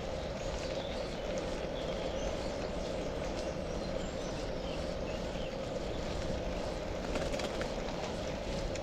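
Steady outdoor noise with birds chirping faintly now and then.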